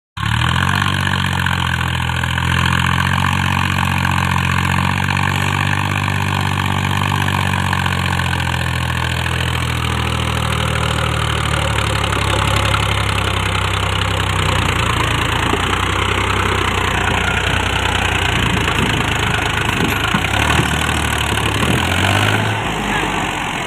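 Tractor engine running steadily. About halfway through its sound gets rougher and denser, as if it is running harder.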